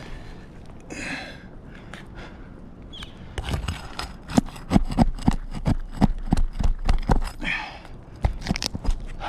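A quick run of sharp knocks and taps on roof shingles, about three a second for some four seconds, then a few more near the end, as a shingle is worked loose for repair. Heavy breaths come before and after the knocking.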